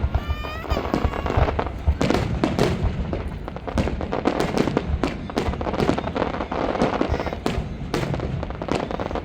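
Fireworks going off in quick, irregular succession: many sharp bangs and crackles, overlapping one another throughout.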